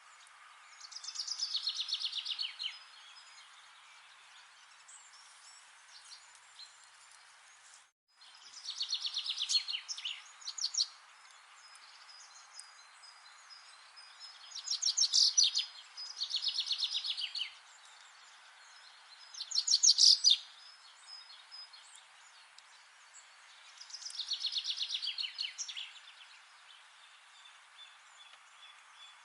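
A songbird singing a short, fast trilled song over and over, about six songs a few seconds apart, each a quick run of high notes, over a faint steady background hiss.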